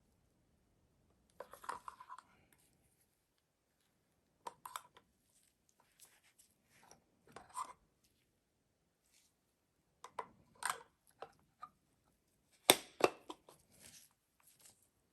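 Metal parts of a Denso starter motor being handled and fitted together during reassembly: scattered clicks, scrapes and light knocks in short bursts, with the sharpest knock a little over three-quarters of the way through.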